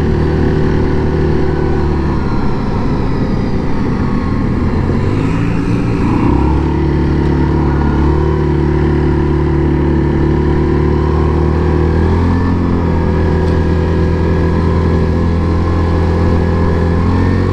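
2017 Yamaha Grizzly 700 ATV's single-cylinder engine running under way, its pitch dropping and rising a few times as the throttle changes.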